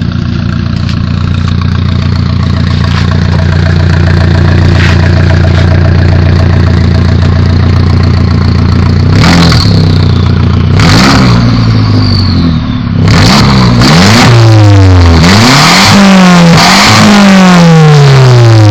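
Car engine with a loud aftermarket exhaust idling steadily, then revved repeatedly from about nine seconds in, each rev rising and falling quickly, with the revs coming closer together and overlapping near the end.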